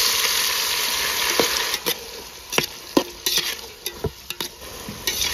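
Tomatoes going into hot oil in a pot. A loud sizzle starts at once and dies down over about two seconds. Then come sharp clicks and knocks as a spatula stirs them against the pot.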